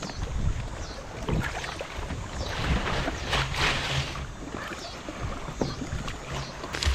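Wind buffeting the microphone over small river waves washing and splashing irregularly at the shore, with the splashing heaviest a few seconds in.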